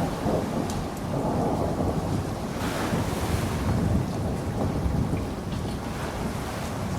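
Steady rainfall, a dense hiss with a heavy low rumble underneath and a few scattered drop ticks, swelling briefly into a brighter hiss about three seconds in.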